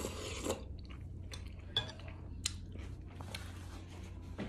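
A person eating a spoonful of tomato soup with pasta: a short slurp off the spoon, then chewing with small wet mouth clicks. A paper napkin rubs across the mouth near the end.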